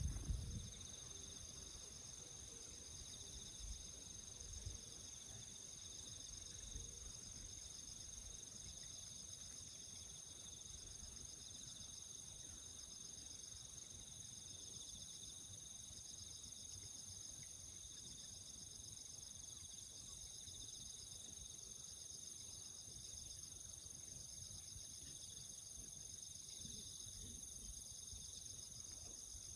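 Crickets and other field insects chirping steadily in several high pitches, some as a fast pulsing trill, with a few faint low bumps about four seconds in.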